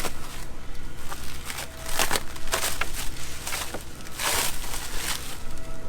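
Shipping packaging being handled and pulled open: crinkling and rustling, with a few sharper scratchy rasps, the longest about four seconds in.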